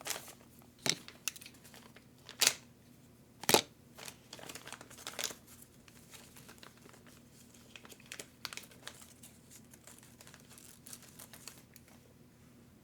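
Plastic parts bags crinkling and rustling as they are handled, with a few sharp clicks in the first few seconds.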